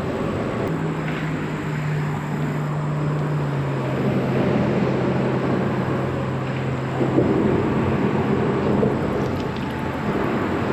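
Steady rumble of road and highway traffic, with one vehicle's low hum that drops slightly in pitch about three and a half seconds in.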